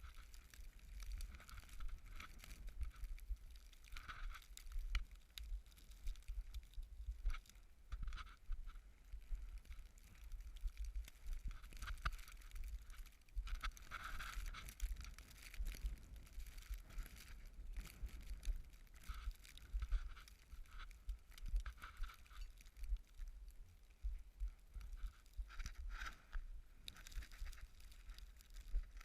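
Gusty wind buffeting the microphone, a low rumble that rises and falls unevenly, over a faint hiss with light scattered crackles.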